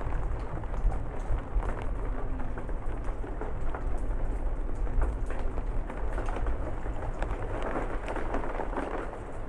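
Steady rain falling on a porch roof and surroundings, many separate drops ticking through the hiss, growing a little heavier about eight seconds in. A low rumble of distant thunder runs underneath.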